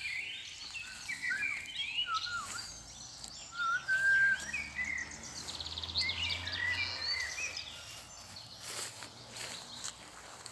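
Several birds singing and calling outdoors, a busy mix of short chirps and whistled notes over a faint background hiss; a held whistle about four seconds in is the loudest.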